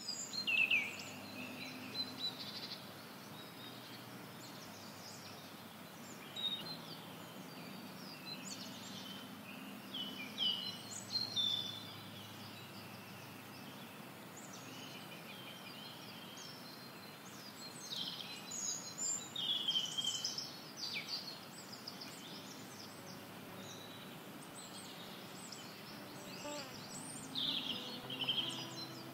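Several small birds chirping and trilling in short phrases over a steady outdoor hiss. A few faint sustained pitched tones come in near the end.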